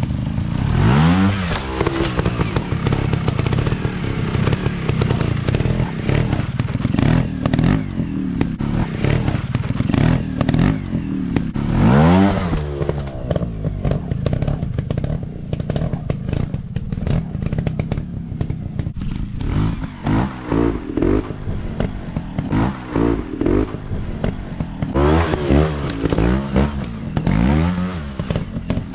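Off-road dirt bike engines revving in repeated bursts, the pitch sweeping up and falling back as the throttle is opened and closed, with clattering throughout.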